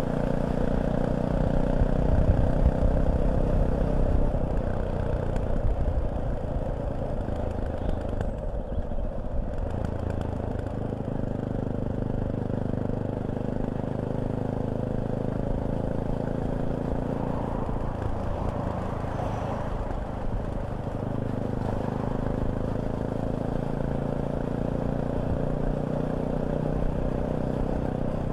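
Fantic Caballero 500's single-cylinder engine running on the road, a little louder for the first few seconds and then settling to a steady cruise with small changes in revs.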